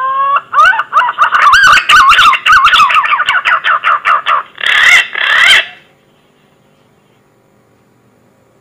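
Green pigeon (punai) song: a long rising whistle, then a run of fast, wavering, warbled whistles, ending with two harsher notes about five seconds in.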